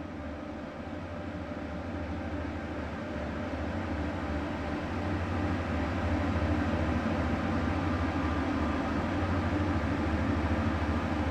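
Steady low engine hum and rumble of a vehicle, growing louder over the first half, then holding steady.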